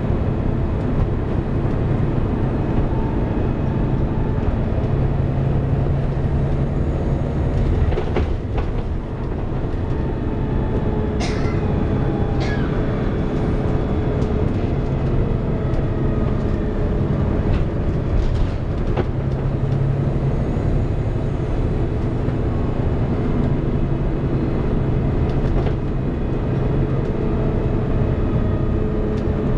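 Volvo B7TL double-decker bus's six-cylinder diesel running, heard from inside the passenger saloon, with the cooling fan's steady hoover-like whine over the engine drone. There are a couple of brief sharp knocks or squeaks near the middle.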